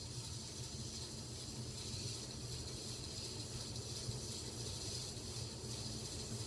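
Hunter ceiling fan running at high speed, a steady hum with a hiss over it, making a lot of noise: a fault the owner hopes to fix.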